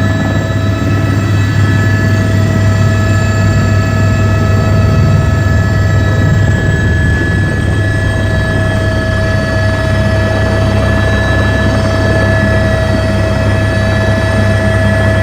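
Helicopter engine and rotor heard from inside the cabin in flight: a loud, steady drone with a steady whine over it.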